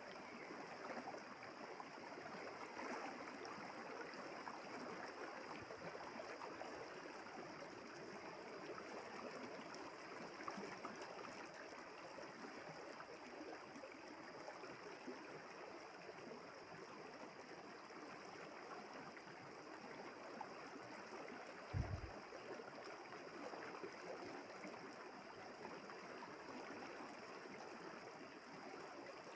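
River water flowing steadily, a continuous rush. A single brief low thump about three quarters of the way through.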